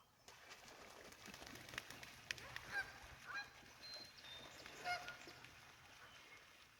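A flock of geese honking: a string of short calls, the loudest about three and five seconds in.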